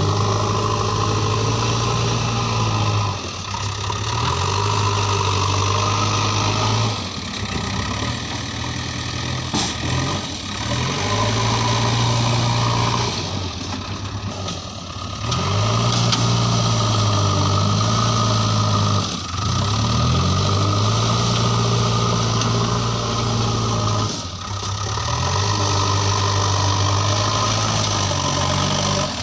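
JCB 3DX backhoe loader's diesel engine running while digging and loading mud. Its engine speed rises and drops every few seconds as the machine works through its loading cycles.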